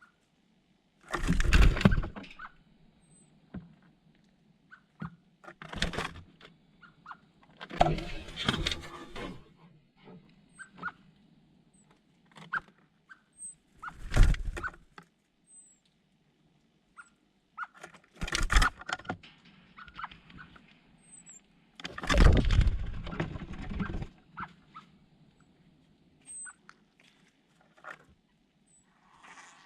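Birds close to the microphone: six loud rustling bursts, spread unevenly, with faint short high chirps between them.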